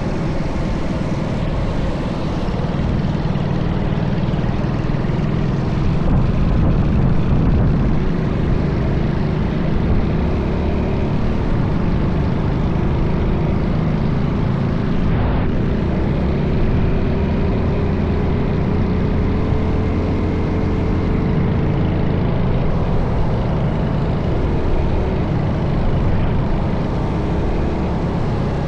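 Small minibike engine running during a ride, under heavy wind rumble on the microphone; the engine pitch climbs slowly about halfway through.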